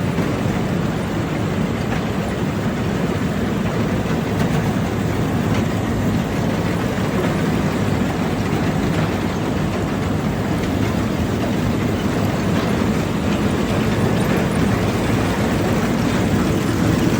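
OVS-25 grain cleaning machine (winnower) running steadily after repair, a continuous loud mechanical rumble with no breaks.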